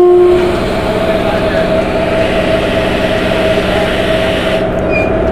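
Railway locomotive and train running at close range: a steady low rumble with a constant hum and a hiss on top that stops suddenly near the end, and a brief pitched tone right at the start.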